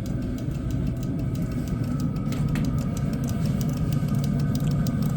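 Chinese diesel heater running steadily on its low setting: a low rumble of burner and fan, with faint rapid ticking.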